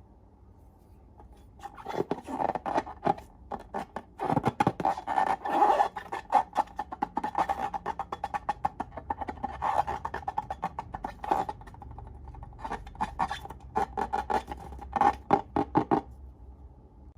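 Slime being squeezed and worked by hand, making rapid, irregular wet clicks and pops that start about a second and a half in and stop shortly before the end.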